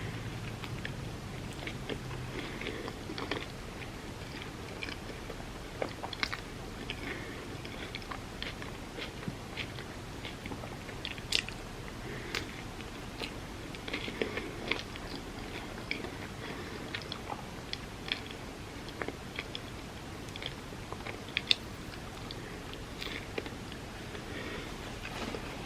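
Close-miked mouth sounds of a person eating loaded avocado toast, chewing and biting with crisp crunches. Small clicks are scattered throughout, with a few sharper crackles.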